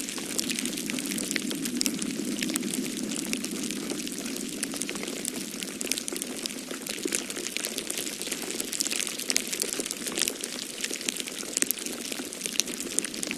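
Wood fire in a fireplace crackling, with many small sharp pops scattered irregularly, over a steady low rushing of snowstorm wind.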